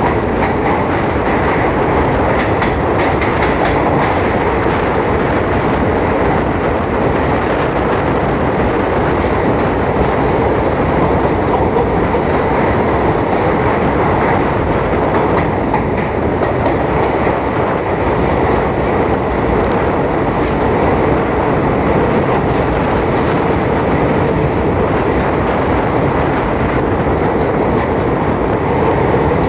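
Passenger train running on the line, a steady loud rumble of wheels on the rails with faint clicks in the first few seconds.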